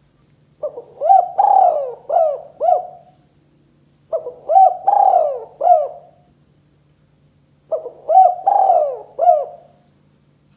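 Spotted dove (tekukur) cooing: three coo phrases a few seconds apart, each a quick run of about five notes.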